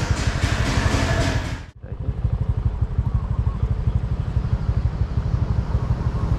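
Motorcycle engine running steadily, with a fast even pulsing. The sound drops out abruptly for a moment about two seconds in, then carries on.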